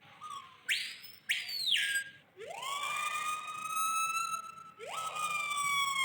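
A bird mimicking an ambulance siren in clear whistles: two quick high rising-and-falling notes about a second in, then long siren-like wails that rise, hold steady and fall away.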